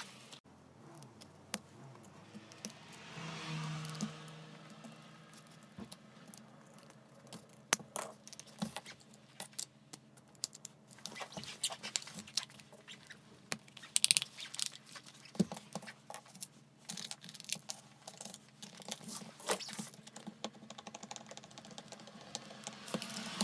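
Small clicks, taps and knocks of hard plastic and metal parts being handled during work on a cordless hammer drill, with a brief steady whir of a small electric motor about three seconds in.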